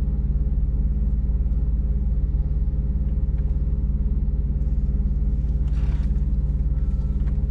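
Semi truck's diesel engine running steadily, heard inside the cab as an even low rumble. A short hiss comes about six seconds in.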